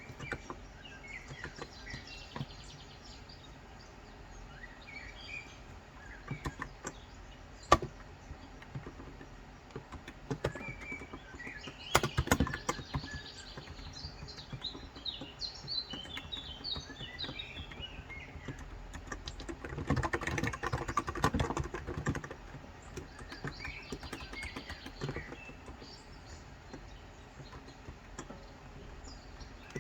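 Intermittent typing on a Cox Endeavor electrostatic capacitive keyboard with 35 g switches: scattered keystrokes, with short runs of quick typing about 12 seconds in and again around 20 seconds in. Birds chirp repeatedly in the background throughout.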